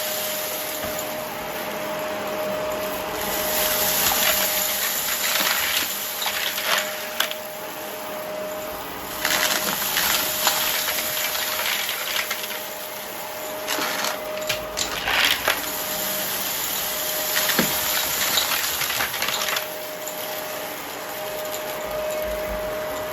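Vacuum cleaner running, with a steady motor whine under a suction hiss that grows louder and eases off every few seconds. Scattered clicks and crackles come through the hiss.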